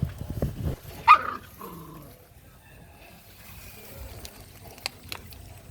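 Puppy giving one short, high yip about a second in, followed by a brief lower whimper.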